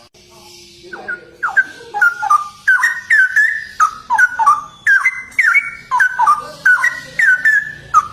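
Straw-headed bulbul (cucak rowo) singing a fast, continuous run of loud, rich, warbling whistled notes that slide up and down, starting about a second in.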